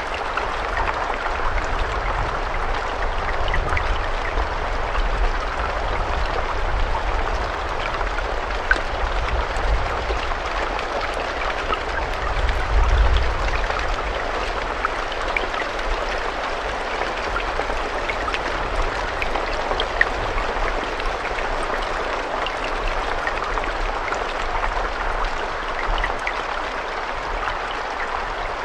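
Steady rain falling, a dense hiss with scattered sharper drops and a low rumble underneath.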